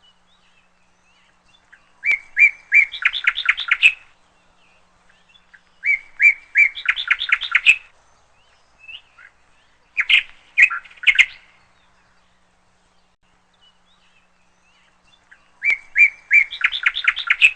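Parrot chirping in four repeated phrases, each about two seconds long: a few spaced high notes that speed up into a rapid run of chirps.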